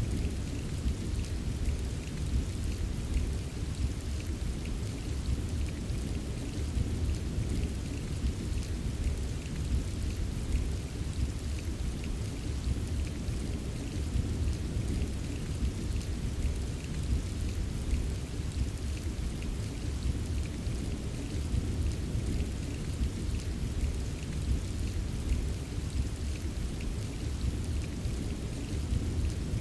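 Steady rainfall with fine pattering drops over a continuous low rumble, even throughout with no distinct thunderclap.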